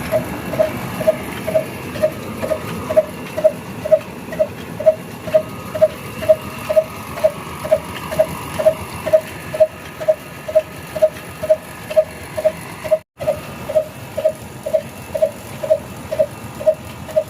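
Old desi diesel engine (Ruston type) driving a flour mill, running at a steady, even beat about two and a half times a second over a rumble. The sound drops out for a split second about three-quarters of the way through.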